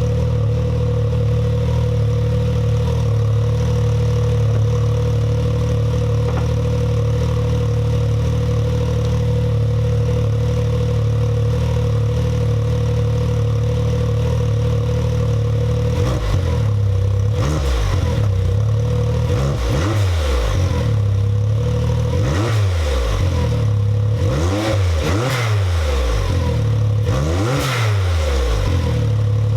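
Can-Am Maverick X3 XMR's turbocharged three-cylinder engine idling steadily through a new Evolution Powersports full exhaust with the catalytic converter deleted. About halfway through, it is revved in about five throttle blips, each rising and falling in pitch.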